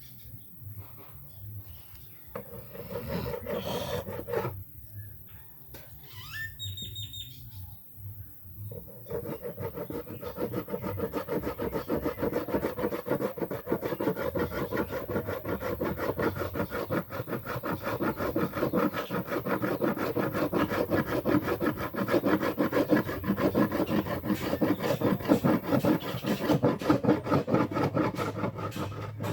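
A hand tool scraping against wood in rapid rasping strokes. A few short passes come first, then a steady, unbroken run starts about nine seconds in.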